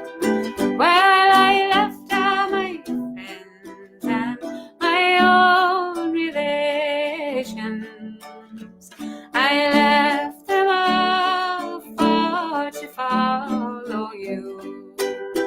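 A woman singing a traditional Irish waltz song in separate sung phrases, over a plucked string accompaniment that carries on in the gaps between lines.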